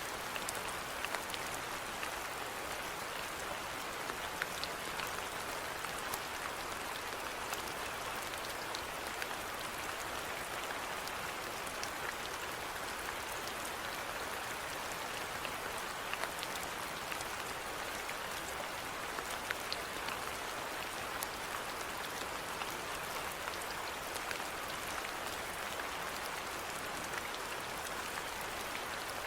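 Steady rainfall: an even hiss with many individual drops ticking on top of it.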